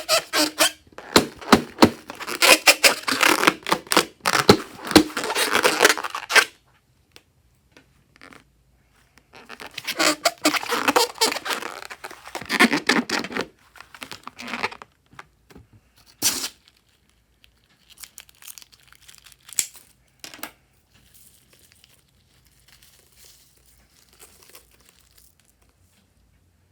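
Slime being worked by hand, a dense crackling of small pops and squelches in two long bouts, then scattered soft clicks.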